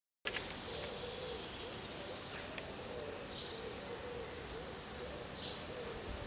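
Outdoor background with birds calling: two short chirps, about halfway through and near the end, over a steady hiss.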